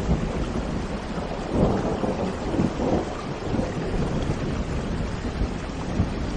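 Steady rushing water, a dense noise with a deep rumble underneath, swelling a little between about one and a half and three seconds in.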